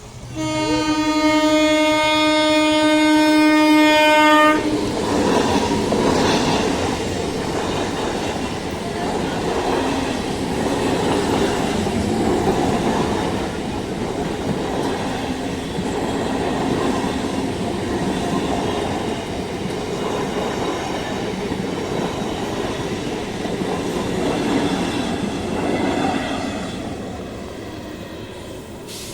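A train horn sounds one long steady blast of about four seconds, then the train runs past with a loud rumble and the clatter of wheels over the rails, fading near the end.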